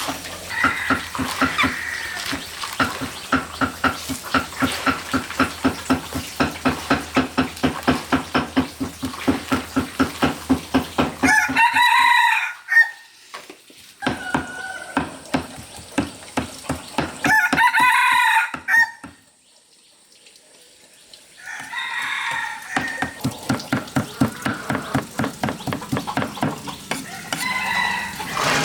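A rooster crows twice, about twelve and eighteen seconds in. Between and around the crows runs a fast, even tapping of about four or five strokes a second.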